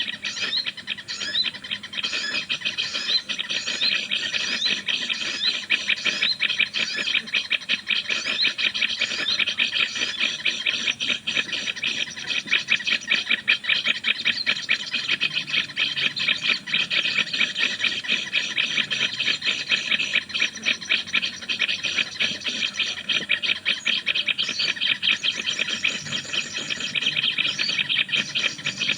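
Continuous, rapid, high-pitched bird chattering: a dense run of very fast repeated notes, with quick rising chirps over it.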